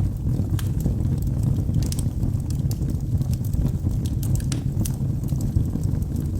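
Wood logs burning in a fireplace: a steady low rumble of the fire with frequent irregular sharp crackles and pops.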